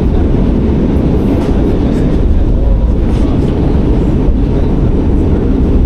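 New York City subway train running, a loud steady low rumble with faint clicks from the rails.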